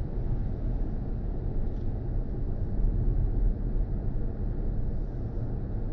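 Steady low rumble of tyre and wind noise heard from inside a moving BMW i4 M50 electric car with the window open.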